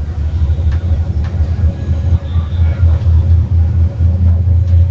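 Steady low rumble of an electric passenger train running, heard from inside the carriage, with a few faint clicks in the first second or so.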